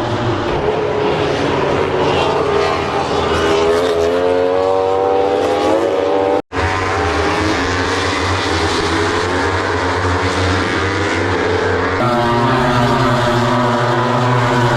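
A motor vehicle engine running with a steady drone. Its pitch rises for a couple of seconds as it speeds up. The sound cuts out briefly about six and a half seconds in, and changes abruptly near the end.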